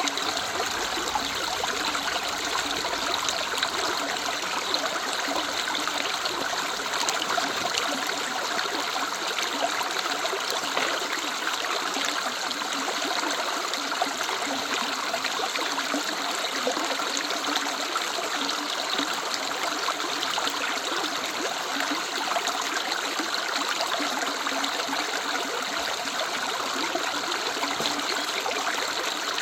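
Woodland river running over stones: a steady rush and babble of flowing water.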